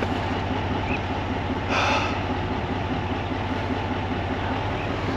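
A truck engine running steadily at a low, even pulse, with a brief hiss about two seconds in.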